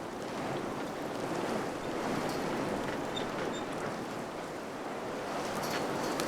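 Wind blowing steadily, swelling and easing a little, with a few faint ticks near the end.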